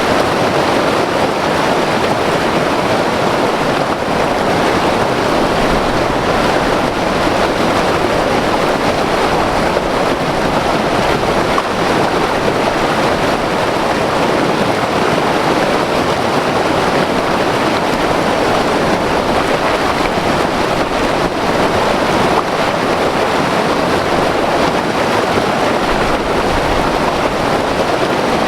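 White-water river rushing over rocks: a loud, steady roar of turbulent water with no breaks.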